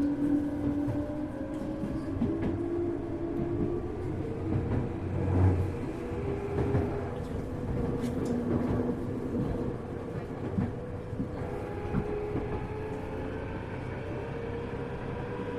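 Interior running sound of a Tokyu 1000 series electric train, recorded in the motor car DeHa 1313. The traction motors whine, rising slightly in pitch over the first few seconds and then holding steady, over the rumble of the wheels on the track, with occasional sharp clicks as the wheels pass rail joints.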